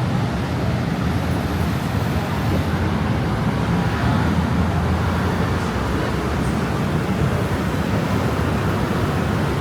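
Steady city road traffic noise: a continuous low rumble of passing motor vehicles.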